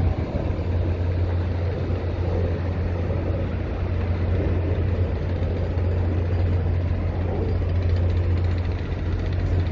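Steady low rumble of vehicle engines, an even drone that holds without a break.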